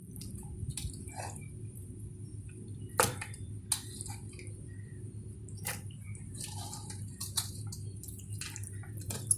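Scattered sharp clicks and drip-like taps, a few seconds apart, over a steady low hum and faint hiss.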